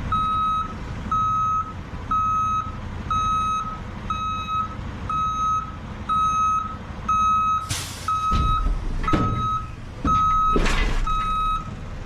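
A truck's reversing alarm beeping about once a second over the low rumble of the engine, with two loud bursts of hiss, the first about eight seconds in and the second near eleven seconds.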